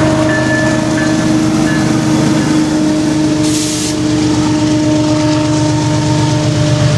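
A diesel freight train passing close by: the locomotive rumbling away as its wagons roll past, with steady tones over the rumble. A short hiss breaks in about three and a half seconds in.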